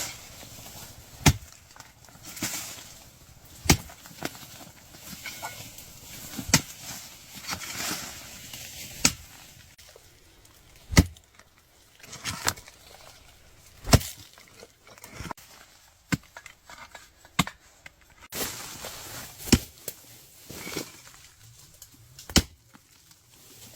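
Repeated chopping strikes of a hand tool, one sharp blow about every two to three seconds, with scraping and rustling between the blows.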